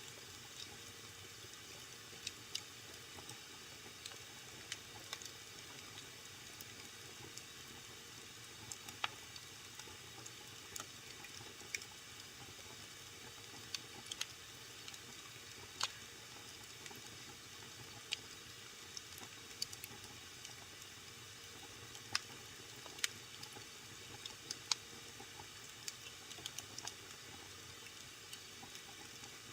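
Fire burning in a fireplace, crackling: irregular sharp pops and snaps, a few a second, over a soft steady hiss.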